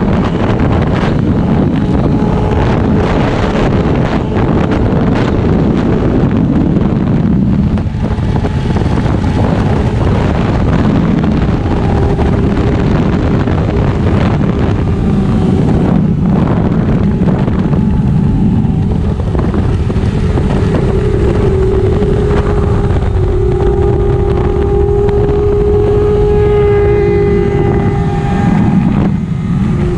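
1999 Yamaha YZF-R6's inline-four engine running hard at high revs under race pace, with heavy wind rushing over the camera. The engine note dips briefly a few times.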